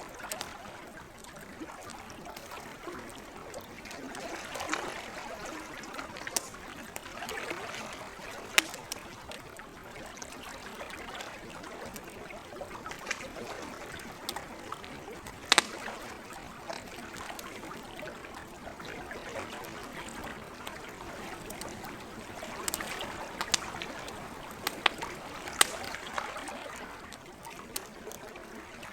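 Wood campfire crackling, with scattered sharp pops, the loudest about halfway through and a cluster near the end, over a steady wash of lake water lapping at the shore.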